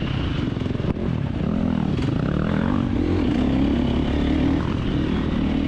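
A 2024 KTM 350XC-F dirt bike's four-stroke single-cylinder engine under race riding, its revs rising and falling every second or two through gear and throttle changes.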